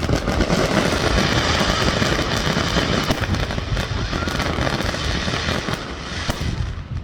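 Fireworks crackling overhead: a dense, continuous run of rapid pops and crackles that thins out near the end.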